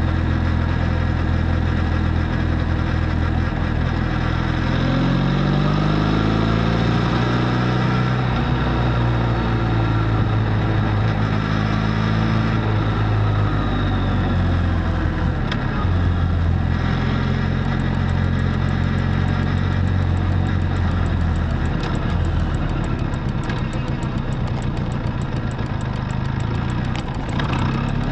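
Benelli Leoncino 500 parallel-twin engine running through its stock exhaust while riding. The note holds steady, climbs in pitch about five seconds in, and shifts a few more times later on.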